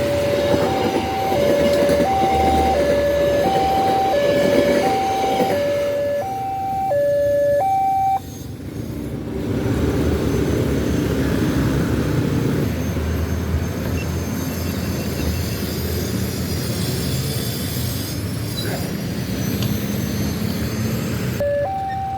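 Railway level-crossing warning alarm sounding in an alternating high-low two-tone pattern, about one cycle a second, over the rumbling running noise of a passing train. The alarm cuts off suddenly about eight seconds in, leaving the train's rumble, and starts again near the end.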